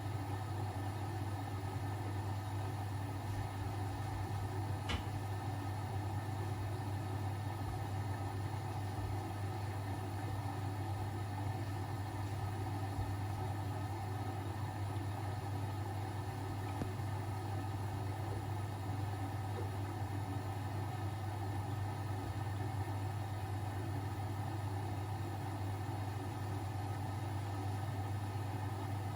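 Household laundry machines running, a steady even hum with no change through the stretch, and a faint click about five seconds in.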